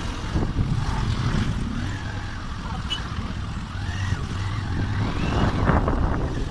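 Motor vehicle engines running in slow traffic: a steady low rumble.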